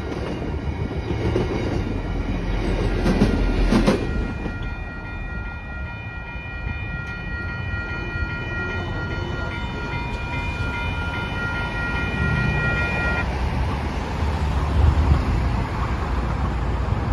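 The tail end of the MBTA CapeFlyer passenger train rolls through the grade crossing, its wheels clacking over the rail joints for the first few seconds. Then the crossing's warning bell rings steadily and cuts off about thirteen seconds in, followed by the low rumble of road traffic moving.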